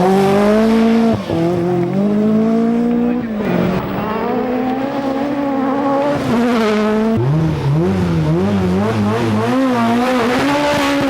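Peugeot 205 T16 rally car's turbocharged four-cylinder engine driven hard. The pitch climbs and drops sharply twice, as at gear changes, holds steady for a couple of seconds, then rises and falls quickly again and again as the throttle is worked on and off.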